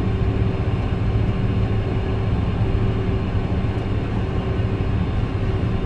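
Steady flight-deck noise of a KC-10 Extender taxiing with its three turbofan engines running: a constant low hum with a few steady tones.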